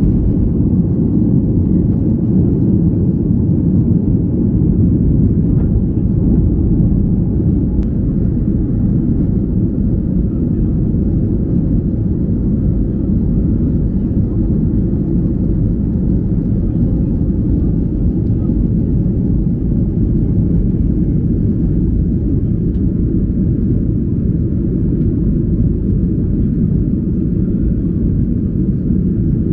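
Steady low rumble of cabin noise aboard a Boeing 737-800: airflow and its CFM56-7B engines, heard from a passenger seat.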